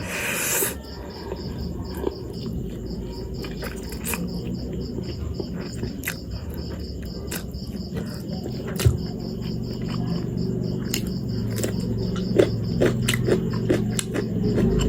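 Mouth sounds of eating spicy instant noodles: a slurp right at the start, then scattered small chewing and biting clicks. Under them, a cricket chirps steadily in evenly spaced pulses.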